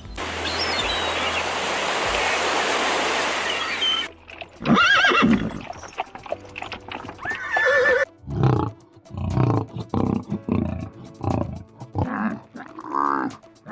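A steady hiss for about four seconds, then a series of animal calls: a gliding, neigh-like call, a second pitched call, and a run of short, separate calls, with music underneath.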